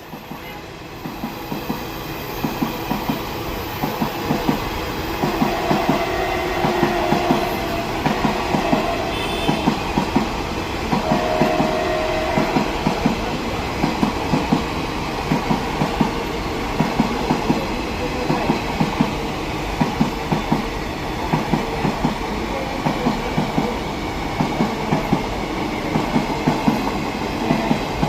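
A train passing close by, its wheels clicking in a fast, steady rhythm over the rail joints. The sound builds over the first few seconds, and there are two brief squealing tones a few seconds apart.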